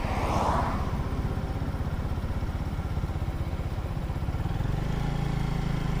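Lifan KP 150 mini motorcycle's small carbureted engine running under the rider, with a brief hiss in the first second. About four and a half seconds in, the engine note changes to a steadier, fuller low hum.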